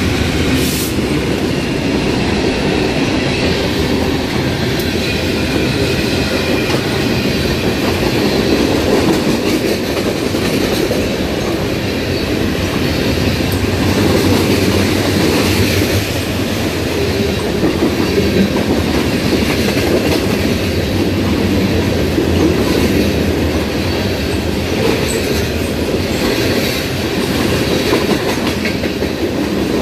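Freight train passing, a loud, steady rumble of its cars' wheels on the rails.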